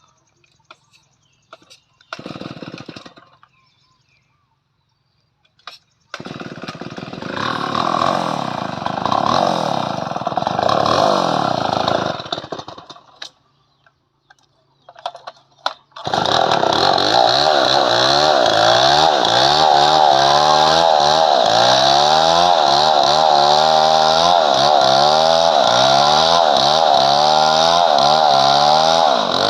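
Two-stroke chainsaw: a short burst of sound, then the saw runs for several seconds with its pitch falling before it dies away. About 16 s in it starts running hard and steadily into padauk wood, its pitch wavering up and down as the chain takes the cut.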